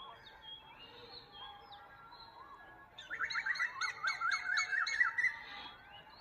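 Songbirds chirping, with scattered short calls, then a louder, rapid series of repeated song notes from about halfway in for two seconds.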